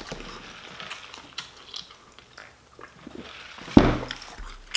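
Close-miked chewing of a shrimp po'boy sandwich: small wet mouth clicks and crackles, with one loud thump about four seconds in.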